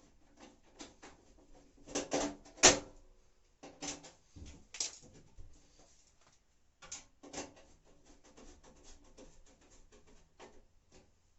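Irregular clicks and knocks of washing-machine parts being handled and fitted into place during reassembly, with the loudest knock about two and a half seconds in.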